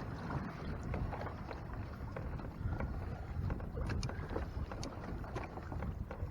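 Water lapping and sloshing against a Hobie Tandem Island sailing kayak's hull, with wind on the microphone and scattered light ticks.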